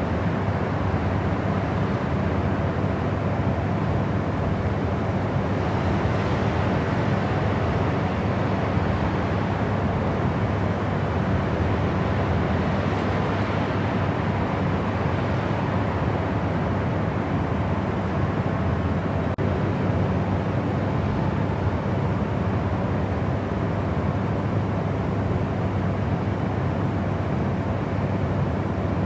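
Steady white noise: an even, unchanging rush, heaviest in the low range, with no breaks or changes in level.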